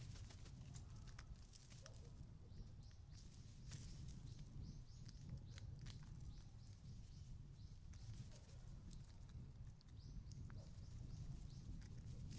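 Faint, scattered taps and clicks of magpies and crows pecking and hopping at a feeding spot, over a low steady rumble, with a short run of faint high chirps a few seconds in.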